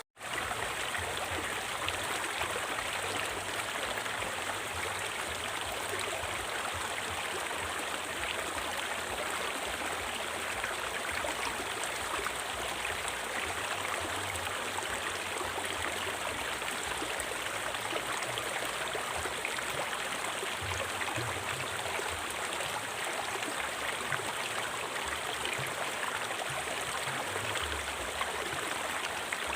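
River water flowing in a steady rush, with a split-second gap at the very start where the recording cuts.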